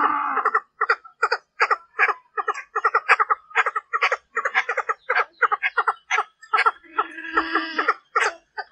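Female Chinese francolin calling: a fast run of short clucking notes, about four a second, with one longer, drawn-out call about a second long near the end. It is the hen's call that trappers use as a lure to provoke territorial males.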